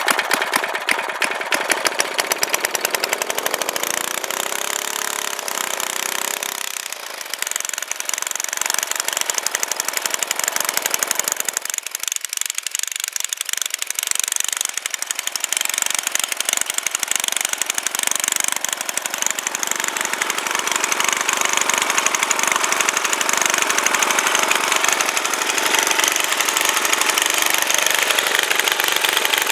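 Briggs & Stratton engine on an Ariens tiller running just after starting up for its first start of the season. Its speed wavers for the first several seconds and dips briefly about twelve seconds in, then it runs steadily.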